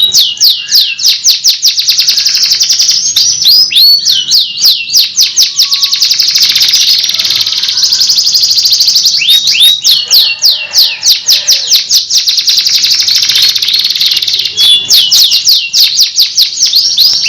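Domestic canary singing a continuous loud song of fast, repeated high sweeping notes, many per second, strung into phrases with rolling trills between.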